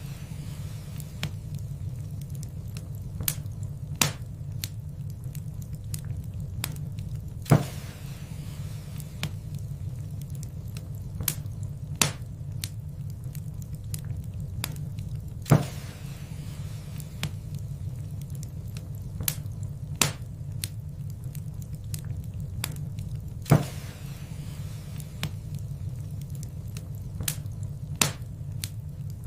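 Wood fire in a fireplace crackling: scattered sharp snaps and pops over a steady low rumble of the flames, with three louder pops about eight seconds apart.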